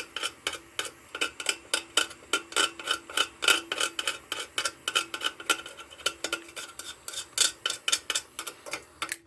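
Rapid metal-on-metal clicks and scrapes against a lantern's metal fount, about five a second, each one ringing briefly at the same pitch. This is a tool working globs of solder off the fount. The strokes stop just before the end.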